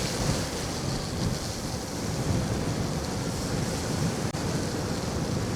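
Steady rush of wind over the microphone, mixed with tyre noise on a wet, snowy road, from an electric scooter travelling at about 28 miles per hour.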